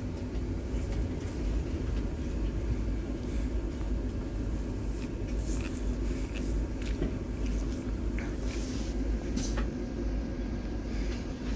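Steady low rumble and hiss inside a passenger train carriage as the train runs, with a few faint clicks and knocks.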